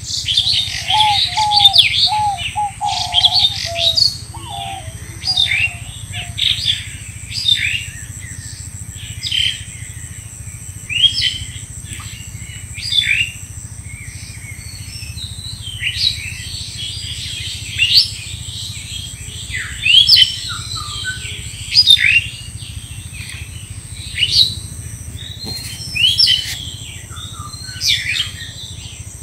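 Songbirds calling, short high notes that sweep downward in pitch, repeating about every two seconds, with a lower warbling call from another bird in the first few seconds. A steady low rumble and a thin high whine run beneath.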